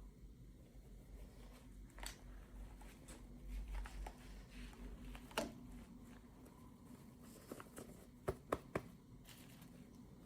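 Quiet handling of small plastic toy packaging during an unboxing: scattered light clicks and taps, the sharpest about five seconds in, then three quick clicks a little past eight seconds.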